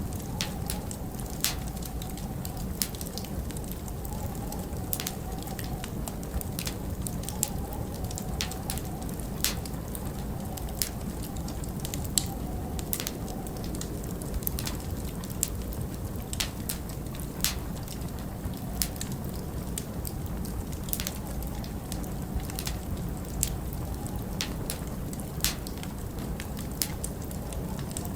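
Wood fire crackling, with frequent sharp pops and snaps at irregular intervals over a steady low rumble of wind, and a faint wavering whistle in the wind.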